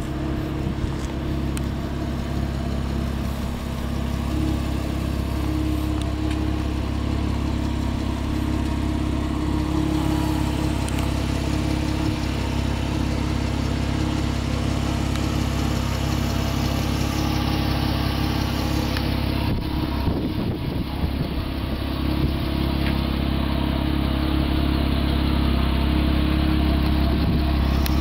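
Porsche Boxster RS60's flat-six engine idling steadily.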